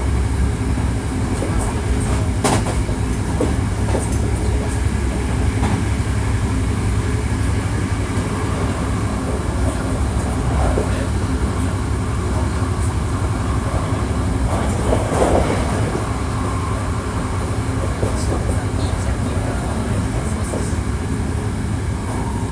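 Hankyu 1300 series electric train running at speed, heard from inside the car: a steady low rumble with occasional clicks from the wheels on the track.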